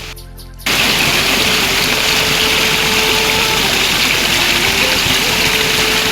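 Heavy rain, a loud steady hiss that starts abruptly just under a second in, with soft background music held faintly beneath it.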